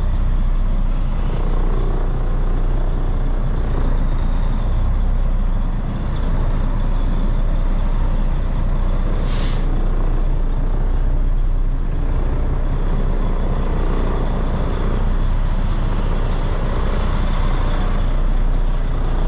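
Semi truck's diesel engine running at low speed while reversing, a steady low rumble, with a short air-brake hiss a little past halfway.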